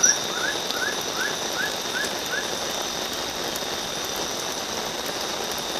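Steady rain hiss in the forest with a constant high insect trill, and a run of short rising chirps, about three a second, that stop about two and a half seconds in.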